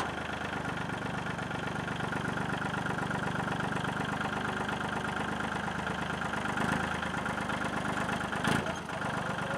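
Engine of a bucket loader idling steadily, with a single short knock about eight and a half seconds in.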